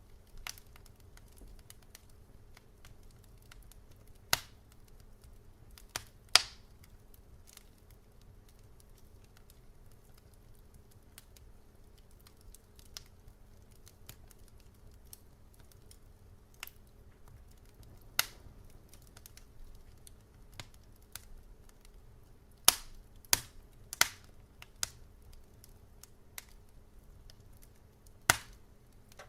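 Wood fire crackling: sharp pops and snaps at irregular intervals, a few loud ones with quiet stretches between, over a low steady rumble.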